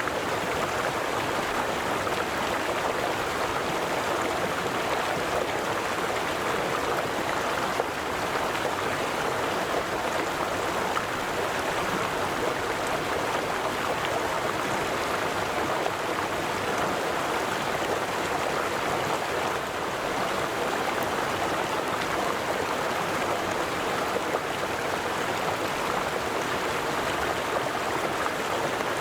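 River water flowing steadily over stones, an even rushing and babbling with no pauses or changes.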